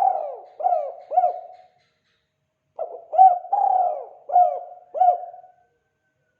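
Spotted dove (tekukur) cooing in the call type Indonesian bird keepers call 'kuk 2': one phrase of several coos ends a little under two seconds in, and a full phrase follows about a second later. Each phrase is a run of short coos ending in a longer, trailing note.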